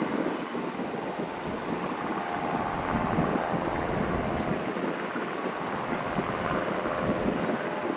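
UH-60 Black Hawk helicopter running: a steady, choppy rotor noise with a faint whine from its twin turboshaft engines.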